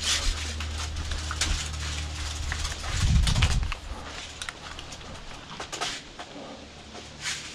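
Airsoft gun firing scattered single shots as sharp clicks, several in the first two or three seconds and a few more spaced out later. A low steady hum runs under them until about four seconds in, and a louder low muffled thump comes about three seconds in.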